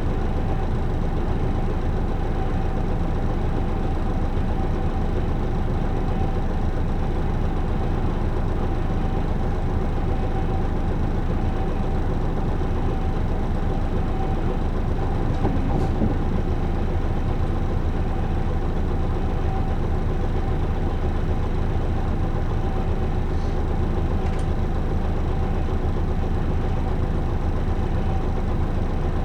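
Isuzu Erga city bus's six-cylinder diesel engine idling steadily, with no revving.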